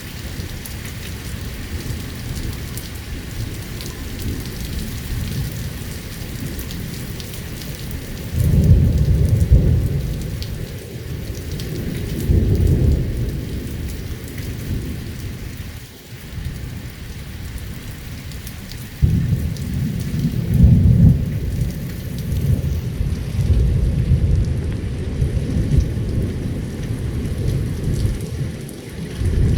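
Heavy rain falling steadily during a severe thunderstorm, with rolls of thunder: a loud deep rumble breaks in suddenly about a third of the way through, another near the middle, and a long rumbling spell through the last third.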